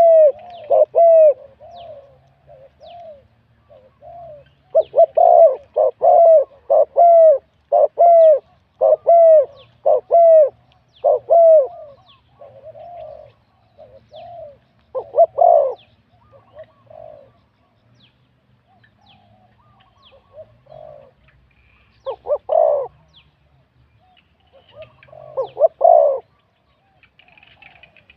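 Spotted dove cooing: runs of deep, repeated coo notes, each dropping in pitch. They come in a rapid series at the start and again from about five to twelve seconds in, then in shorter phrases with pauses between them.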